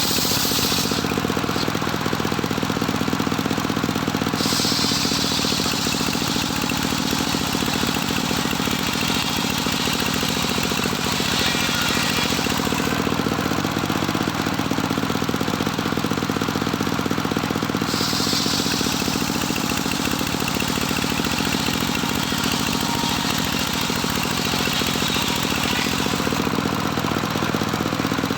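Engine-driven homemade circular sawmill running steadily, its motor holding an even note while a high hiss grows and fades every several seconds.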